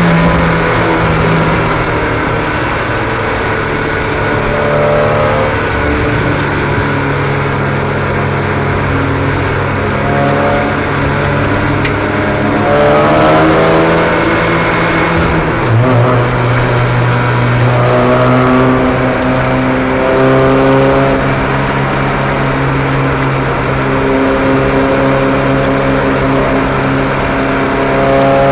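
Several small race-car engines running together on track, each engine's pitch rising and falling as the cars accelerate and slow for the corners.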